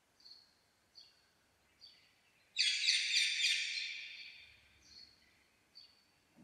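Alexandrine parakeet calling: short high chirps about once a second, and one loud harsh screech about two and a half seconds in that fades over more than a second.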